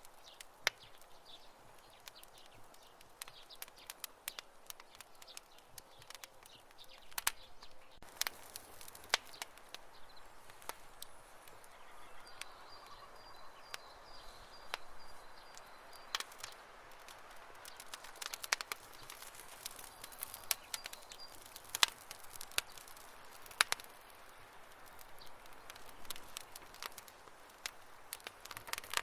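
Wood campfire crackling: irregular sharp pops and snaps over a soft steady hiss, with a faint high thin tone in the middle stretch.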